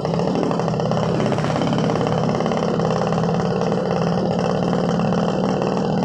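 Suzuki RC100's single-cylinder two-stroke engine running at a steady speed, its exhaust beating in a rapid, even pulse.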